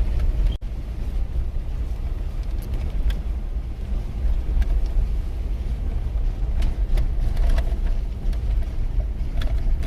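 Car cabin road noise while driving: a steady low rumble of engine and tyres, with a few faint ticks. It briefly cuts out about half a second in.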